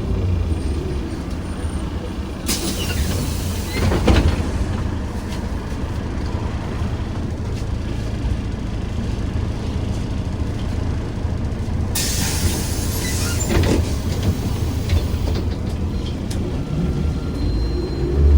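Interior sound of a ZiU-682 trolleybus: a steady rumble, with a burst of compressed-air hiss a couple of seconds in that ends in a knock, and a second, longer hiss about twelve seconds in. Near the end the electric traction motor's whine rises as the trolleybus pulls away.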